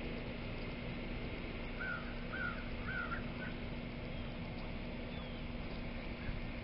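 A bird calls three or four short times in quick succession about two seconds in, over steady outdoor background noise with a low hum.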